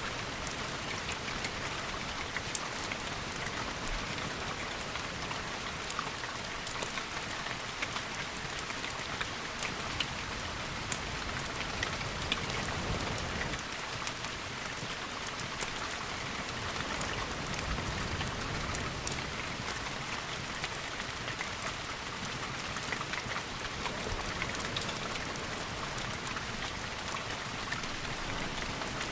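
Steady heavy rain falling on windows, a dense even hiss scattered with sharp drop ticks, with a low swell of sound in the middle.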